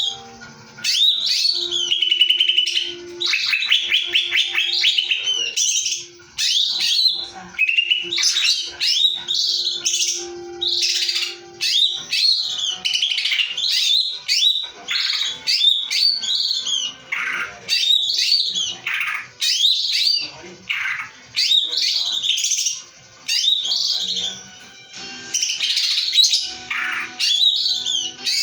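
Cucak ijo (green leafbird) singing a loud, varied song of rapid rolling trills, whistled glides and sharp shrill calls in quick succession. It is a masteran recording meant to coax other songbirds into singing out their repertoire.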